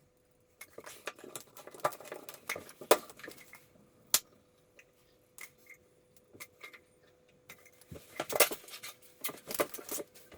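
Irregular clinks and clattering of small hard objects being handled, in two busy spells, over a faint steady hum.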